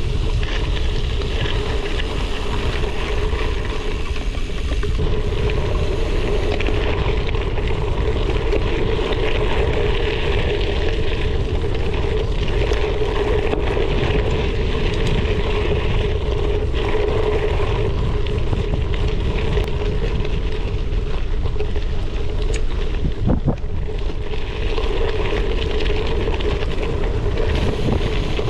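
Wind rushing over an action camera's microphone on a moving gravel bike, over the steady noise of tyres rolling on a gravel trail, with one sharp knock late on.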